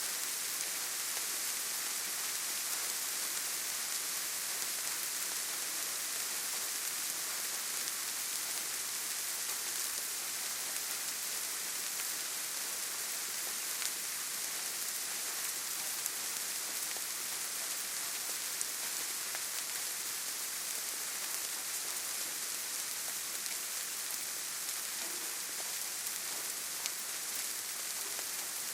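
Steady rain falling on leaves and forest ground, an even hiss with the occasional sharper drop tick.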